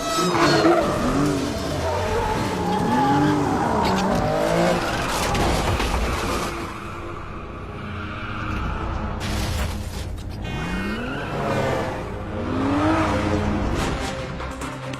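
Film car-chase soundtrack: car engines revving up and down hard with tyre squeals, under a music score. A few sharp impacts come about two-thirds of the way through.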